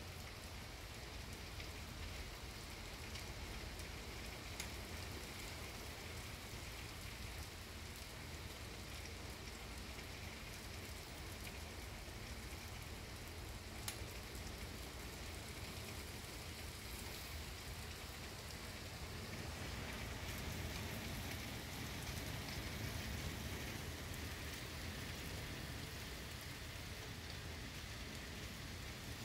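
Heavy rain falling, a steady hiss that grows a little louder about two-thirds of the way through.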